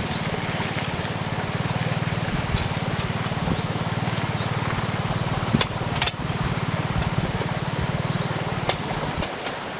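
A low, steady engine-like drone that stops about nine seconds in, over the rush of a flowing stream, with repeated short high bird chirps.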